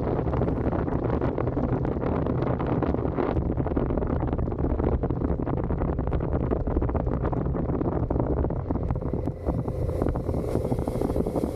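Suzuki SV650's 90-degree V-twin engine running through its stock exhaust while riding, heavily mixed with wind noise on the microphone. The loudness dips briefly about nine seconds in.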